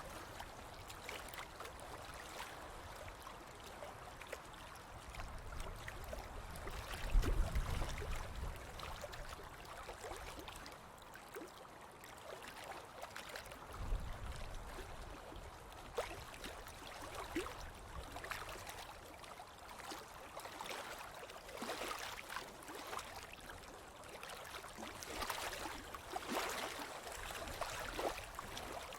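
Ocean waves washing onto a beach: a steady hiss of surf that swells and fades, with two low rumbles, about a quarter of the way in and again near the middle.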